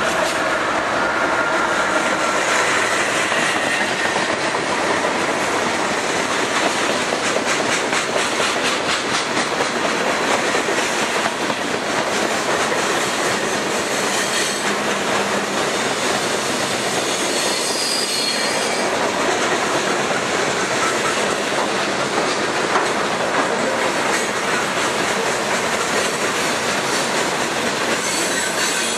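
Canadian Pacific freight train passing close by. The trailing locomotive goes past at the start, then a long string of boxcars runs by with a steady rumble and wheels clicking over the rail joints. A faint high wheel squeal comes about halfway through.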